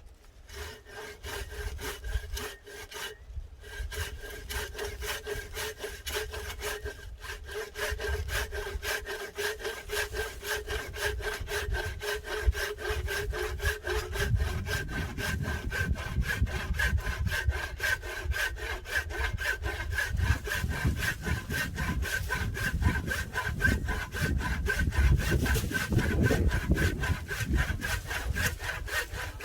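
A saw cutting firewood with a fast, even rasping, growing heavier and deeper from about halfway through.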